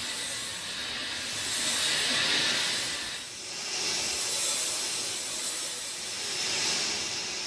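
Steady rain, a dense even hiss that swells and eases every few seconds, dipping briefly about three seconds in.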